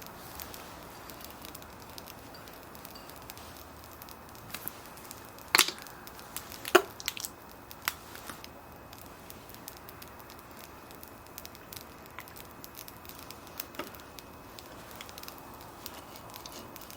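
Wood fire crackling quietly, with a few sharp pops, the loudest two about five and a half and seven seconds in.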